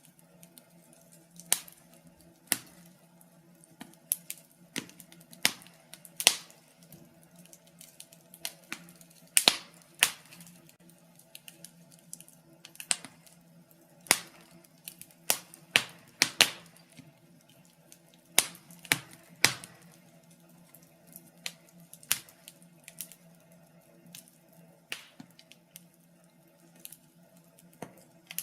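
Wood fire burning in a fireplace, crackling with irregular sharp pops and snaps, some louder than others, over a faint steady low hum.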